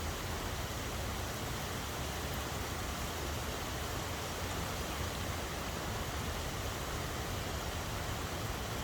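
Steady rainfall, an even unbroken hiss with a low rumble underneath.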